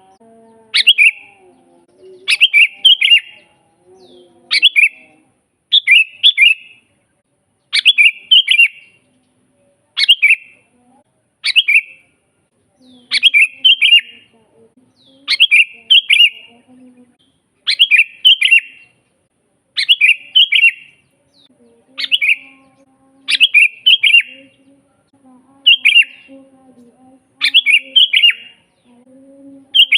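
Sooty-headed bulbul (kutilang) singing: a short, quick, bubbly phrase of a few notes, repeated about every two seconds.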